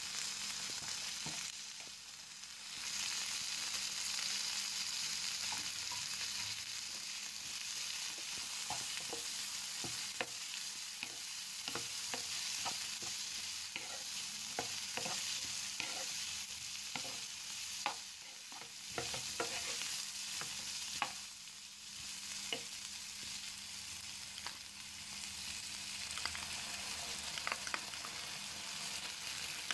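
Diced onions and bell peppers sizzling in a hot non-stick frying pan, with a steady hiss and many short clicks and scrapes of a wooden spoon stirring them against the pan.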